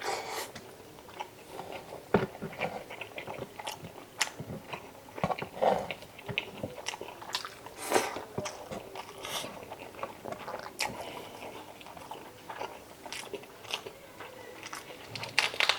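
Close-up eating sounds: a person chewing and biting, with irregular wet clicks and crunches.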